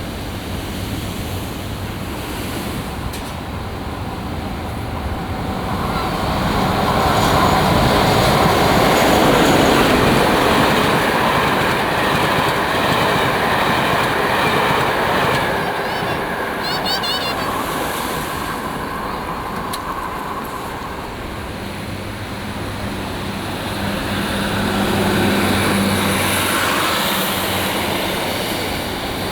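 A diesel train passing on the sea-wall line over the steady noise of surf, its wheel and engine noise swelling to a peak about a third of the way in and then easing. A low steady engine hum comes through near the end.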